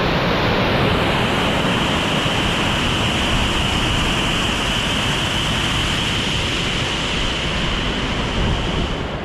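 Waterfall rushing: a loud, steady roar of falling water. About a second in, a steady high-pitched drone joins it and runs on until just before the end.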